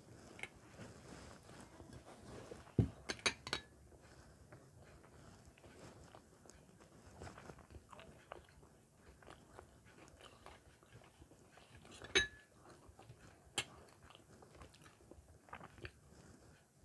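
Faint, close-miked chewing and mouth sounds of someone eating paratha and rice. A few sharp clinks of glass and steel plates being moved on the table come about three seconds in, and again near twelve seconds.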